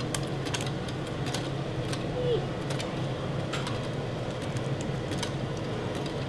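Lego bricks being handled, with light irregular clicks and rattles of plastic pieces over a steady room hum.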